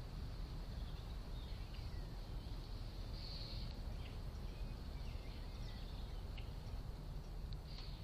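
Faint, scattered bird chirps and short calls over a steady low background rumble, picked up by a trail camera's microphone.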